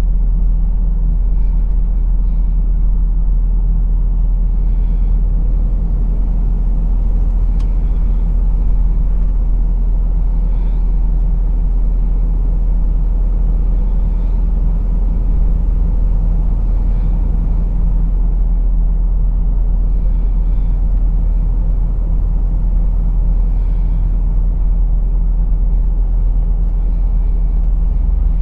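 Heavy truck's diesel engine running steadily while driving, a continuous low drone mixed with road noise.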